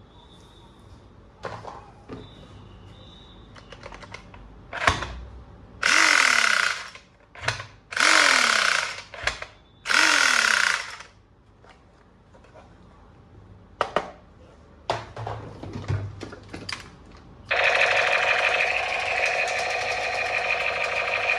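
Plastic toy gun being handled with clicks, then three electronic firing bursts about two seconds apart, each with a falling tone. Music with a guitar-like sound begins near the end.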